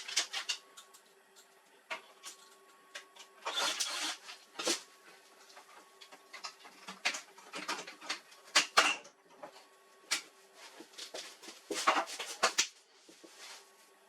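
Irregular clicks, knocks and short scrapes of plastic and metal printer parts being handled and worked apart during disassembly of an HP LaserJet 4345 printer.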